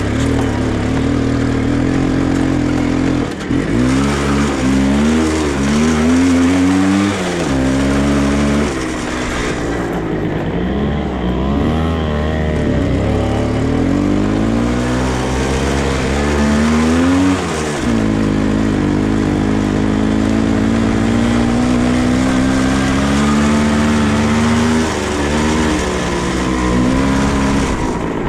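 Dirt bike engine revving up and down under riding, its pitch climbing through the gears and dropping off several times, then holding a steadier pitch for several seconds in the second half.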